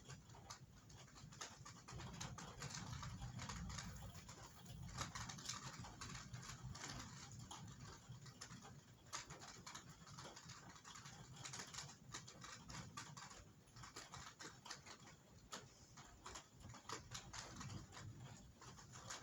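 Rain pattering, with dense, irregular drops ticking on a hard surface, over a faint low rumble that swells a few seconds in.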